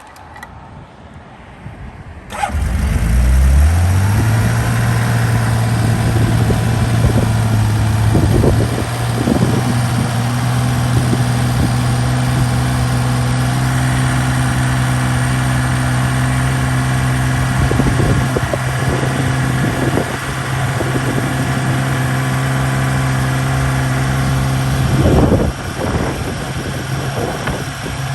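1982 Honda CBX's inline six-cylinder engine starting from cold about two seconds in. It climbs quickly to a steady fast idle, with a brief rev near the end.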